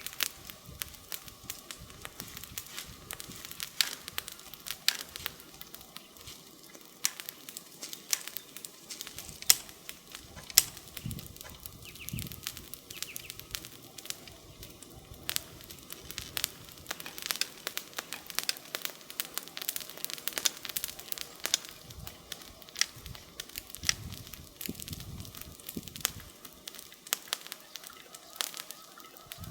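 Wood campfire crackling, with scattered sharp pops over a soft hiss. Two pops a third of the way in are louder than the rest.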